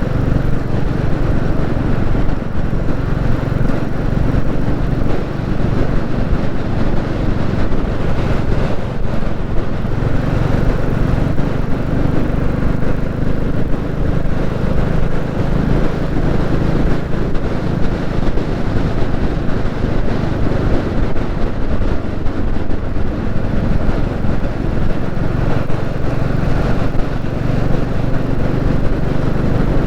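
Royal Enfield Classic 350's single-cylinder engine running steadily at road speed under way.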